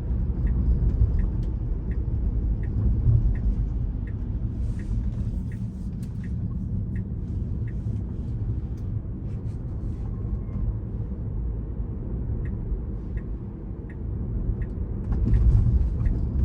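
Steady road and tyre rumble inside a Tesla's cabin while driving, with the turn signal ticking about one and a half times a second. The ticking stops about nine seconds in and starts again near the end, as the car attempts a lane change and then abandons it.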